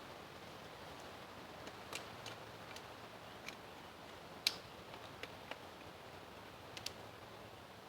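Scattered sharp clicks and small snaps from sticks being trimmed of their little limbs and cut to length. The loudest snap comes about halfway through, over a faint steady hiss.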